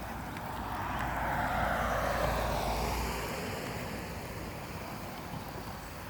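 Water rushing and splashing as a Traxxas TRX-4 RC crawler drives through a flooded ditch, swelling for about three seconds and then fading.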